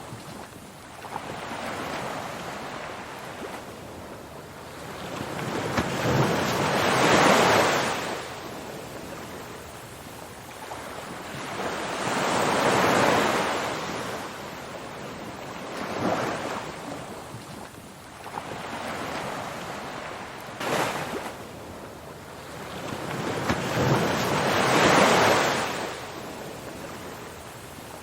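Ocean surf: waves breaking and washing in, the noise swelling and fading every few seconds, with the biggest surges about seven, thirteen and twenty-five seconds in.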